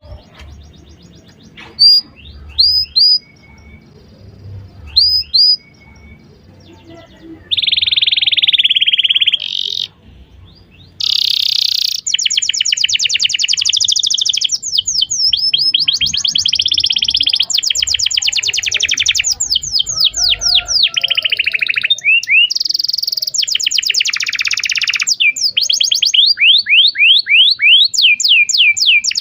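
Domestic canary singing: a few short, separate chirps at first, then from about seven seconds in a long, almost unbroken song of fast trills and rapidly repeated sweeping notes.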